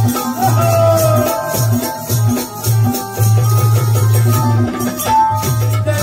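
Instrumental passage of Marathi devotional bhajan music: a steady, rhythmic low drum beat under jingling hand percussion, with a few held melody notes.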